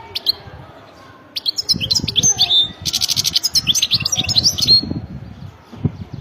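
European goldfinch singing: a fast run of high twittering chirps and glides with a buzzy trill in the middle, ending just before the last second. Low rumbling thuds sound underneath.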